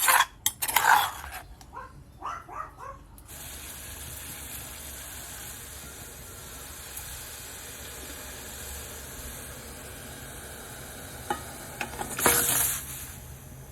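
Cookware clattering a few times, then a steady hiss of food cooking for several seconds, with another clatter near the end.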